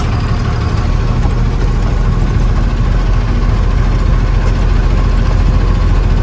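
A truck's diesel engine running steadily, a deep, even drone.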